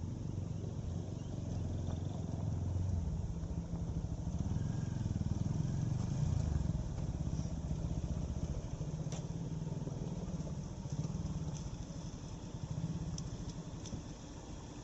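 Car engine running under load, getting louder between about two and seven seconds in and then easing. A few sharp clicks or knocks come later.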